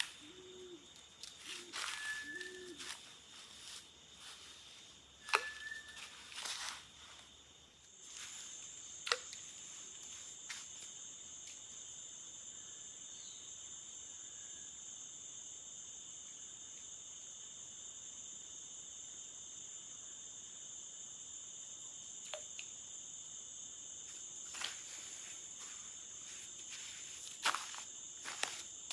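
Forest insects chirring in a steady high drone, with a second, higher continuous trill joining about eight seconds in. A dove coos a few low repeated notes in the first seconds, and there are a few faint knocks.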